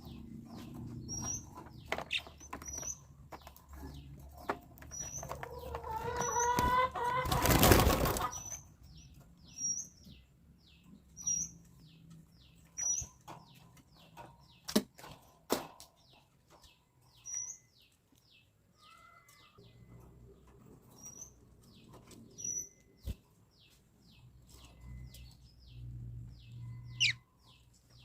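Lovebirds chirping: a short, high, downward chirp repeated roughly once a second, with a louder noisy burst about seven to eight seconds in.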